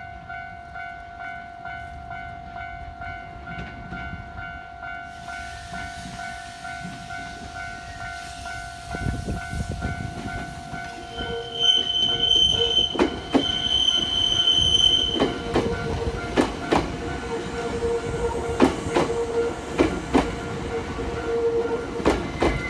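Japanese railway crossing bell rings steadily as a Nankai electric train approaches. The train sounds two high-pitched horn blasts about halfway through, then passes with repeated clacks of wheels over rail joints and a steady squeal from the wheels.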